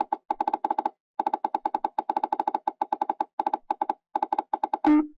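VTube-LASER measuring software's feedback beeps during a FARO Edge laser scan of a tube bend: rapid short pitched ticks, about seven or eight a second, in runs with brief gaps, as laser stripes are captured. Near the end comes one longer, louder tone.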